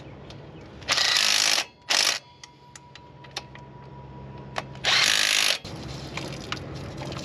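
A power tool run in three short bursts: about a second in, again briefly just after two seconds, and again near five seconds.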